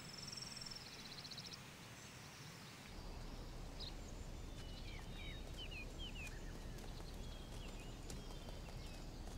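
Wild birds chirping and trilling in short, high calls, one quick trill near the start and scattered chirps from about four seconds in. A steady low outdoor ambience comes in about three seconds in.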